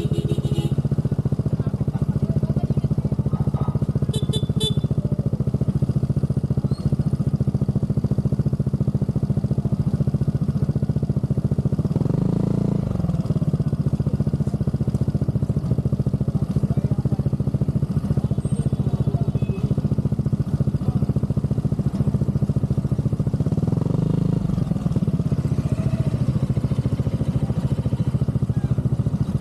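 Aprilia SR GT scooter's single-cylinder engine idling through an aftermarket Zard exhaust, a fast even burble. The engine is briefly blipped twice, once about halfway through and once near the end.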